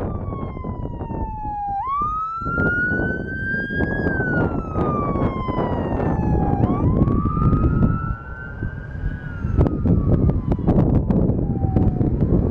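Emergency vehicle siren wailing: twice its pitch jumps up, climbs slowly, then falls away over several seconds. Wind rumbles on the microphone underneath.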